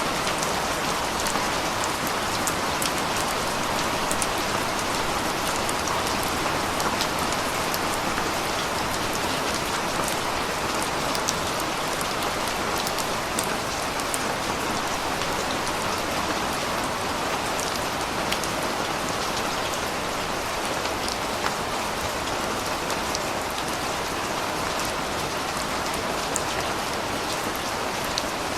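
Steady rain falling, an even wash of noise with many small sharp ticks of individual drops hitting a surface.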